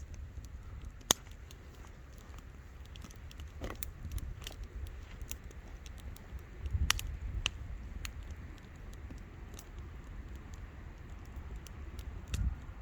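Wood fire crackling, with irregular sharp pops and ticks over a low rumble. A single loud pop comes about a second in.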